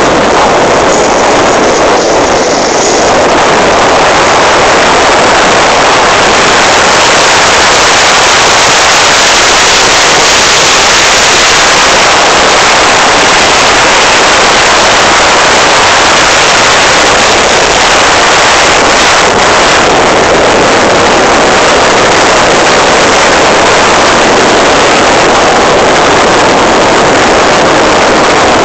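Loud, steady rush of wind and water against the microphone while moving at speed on the water behind a jet ski, its engine buried in the noise.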